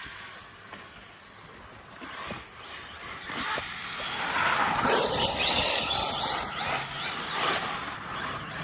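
Electric RC truck (ARRMA Mojave EXB) driving over loose gravel: its motor whine rises and falls with throttle over the crunch and spray of gravel under the tyres. It is quieter for about the first two seconds, then picks up.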